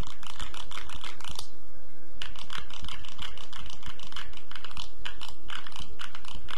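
Rapid, dense close-miked clicking and tapping, typing-like, as ASMR trigger sounds for a roleplayed dental treatment. The clicks pause briefly about a second and a half in, then carry on.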